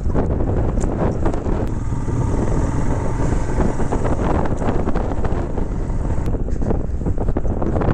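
Wind buffeting the microphone over the steady running of a Royal Enfield Himalayan's single-cylinder engine.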